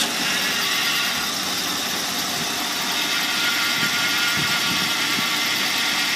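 1985 Buick Century Estate Wagon engine idling steadily just after starting.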